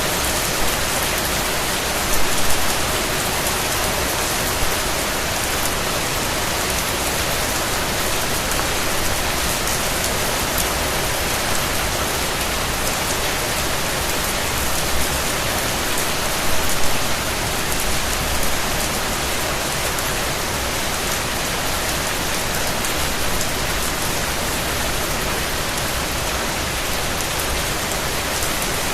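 Steady rain, a dense even hiss of drops falling on a surface, with a few brief louder patters of drops.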